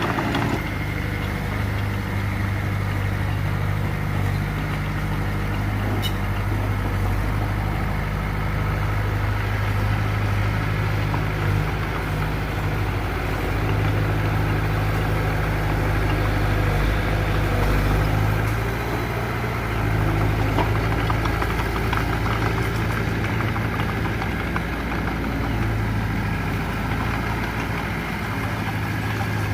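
Heavy diesel engine of earthmoving machinery running steadily at an even speed, with a low hum.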